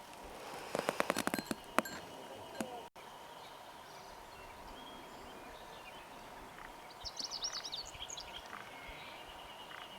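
Footsteps knocking on wooden boardwalk planks in a quick run of about eight hollow steps. Then a steady quiet outdoor background, with a small bird's quick high twittering about seven seconds in.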